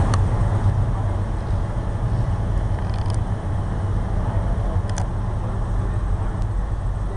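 Steady low rumble of a car engine running, with faint clicks about three and five seconds in.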